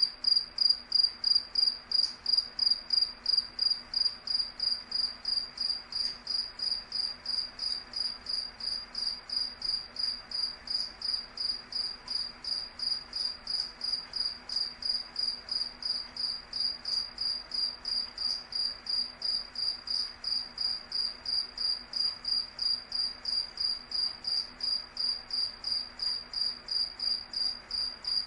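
A cricket chirping in a steady, even rhythm, about two or three high chirps a second.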